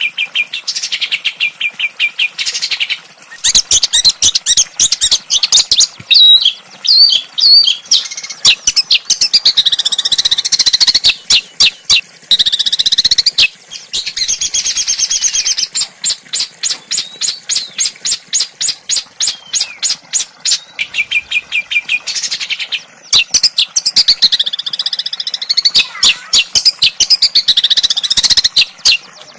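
A small songbird singing continuously: fast runs of sharp, harsh repeated notes and rapid trills broken by rising and falling whistled phrases, with short pauses between bursts.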